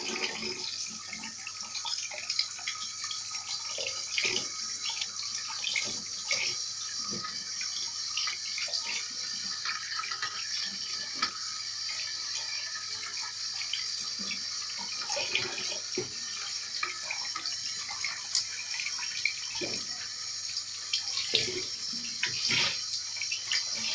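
Kitchen tap running steadily into a sink while a raw chicken is rinsed and handled under it, with scattered irregular splashes and knocks.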